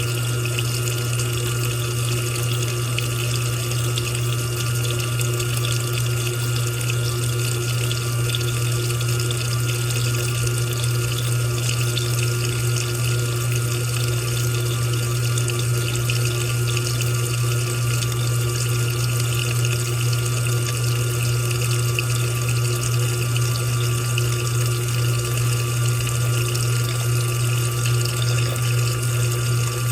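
Washing machine running, water moving in the drum over a steady low hum.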